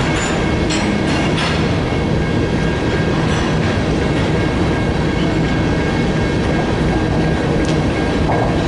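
Freight train of grain hopper cars rolling past: a steady loud rumble of steel wheels on rail, with scattered clicks and a faint steady high-pitched wheel squeal.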